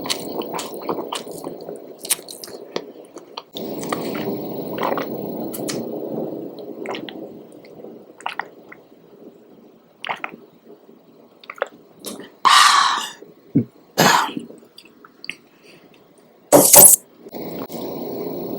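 Close-miked eating of spicy noodles and jumbo shrimp: wet chewing with small smacking clicks. Three loud, short, noisy bursts come in the second half.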